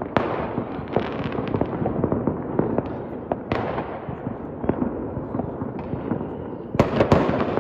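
Fireworks and firecrackers going off: a dense, continuous crackle of small bangs, with louder sharp bursts right at the start, at about three and a half seconds, and twice in quick succession near the end.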